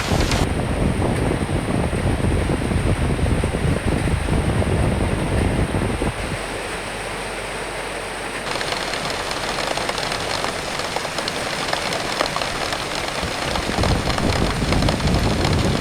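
Rain hissing steadily with gusts of wind rumbling low and heavy. The wind eases about six seconds in and builds again near the end.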